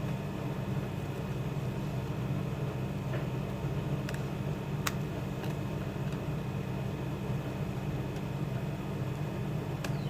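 Scissors making a few small snips in thick chart paper, heard as faint, scattered clicks over a steady low background hum.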